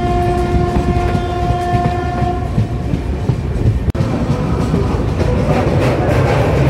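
Rumble and clatter of a moving express train heard from a coach window, with a train horn held on one long steady note that cuts off about two and a half seconds in. After a brief dropout about four seconds in, the wheels rattle and clatter more loudly on the track.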